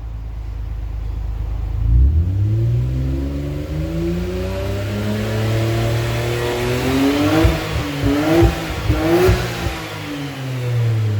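Nissan Skyline GT-R V-spec II's RB26DETT twin-turbo straight-six, breathing through a Fujitsubo Legalis R Type Evo exhaust, revved up from idle. The engine note climbs steadily for several seconds, is blipped a few times sharply near the top, then drops back to idle near the end.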